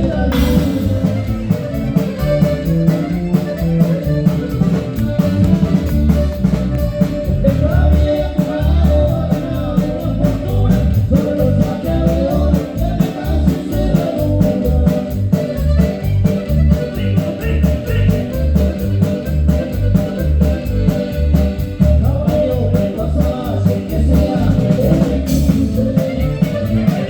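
Ranchero band playing the instrumental introduction of a corrido, with a steady beat from bass and drums under a guitar melody.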